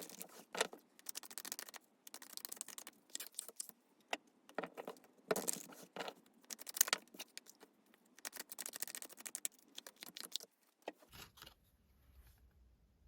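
Tarot cards being shuffled by hand: several bursts of rapid papery flicking and clicking, then the handling stops about ten seconds in.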